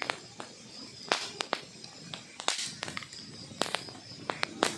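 Log fire crackling: irregular sharp pops and snaps over a low hiss, with louder pops about a second in and near the end, and a brief hissing flare in the middle.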